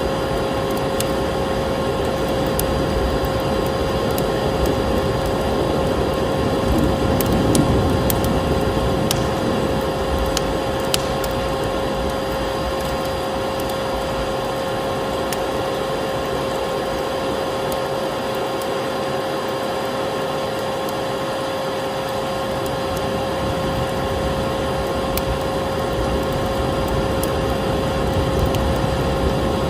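Vacuum cleaner running steadily, with a constant droning tone, mixed with a wood fire crackling in a fireplace; the fire's pops and snaps are scattered, most of them about a quarter to a third of the way in.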